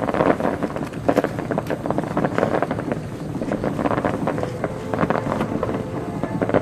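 Fireworks crackling overhead: a dense, irregular run of small pops and crackles, like crackle-star shells, mixed with wind buffeting the microphone.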